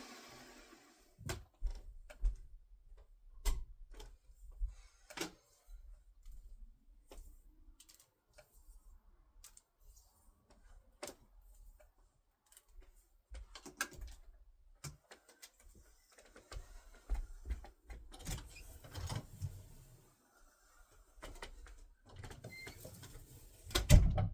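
Scattered clicks and knocks of handling in a quiet room, with the loudest thump near the end; the vacuum cleaner is not running.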